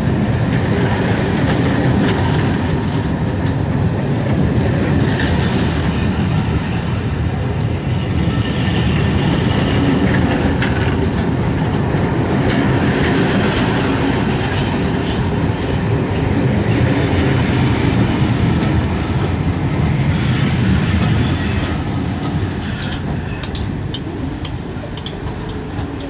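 Loaded test train behind steam locomotive 60163 Tornado rolling past: a steady loud rumble with the clatter of wheels on the rails, dying away over the last few seconds with a few sharp clicks near the end.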